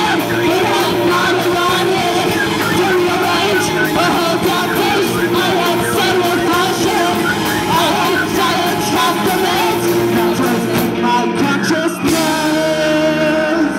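Rock band playing live with vocals and drums. About twelve seconds in, the drumming breaks off and held notes ring on as the song nears its end.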